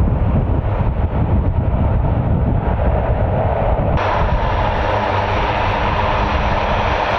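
Jet aircraft engine noise, a steady low rumble. About four seconds in it changes abruptly to a brighter, hissier jet sound.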